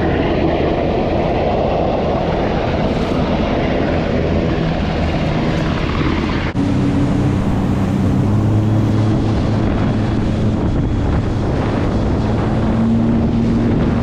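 Sea-Doo jet ski engine running steadily under way, with wind and water noise, and a helicopter overhead in the first half. An abrupt edit about six and a half seconds in, after which the jet ski's engine drone is steadier and more even-pitched.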